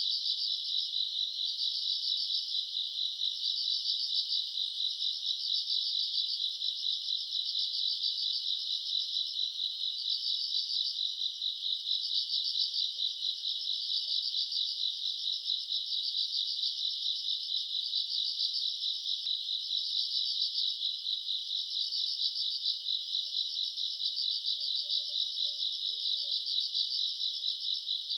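A summer-night chorus of crickets: many insects chirping together in a dense, steady, high-pitched pulsing trill that never pauses.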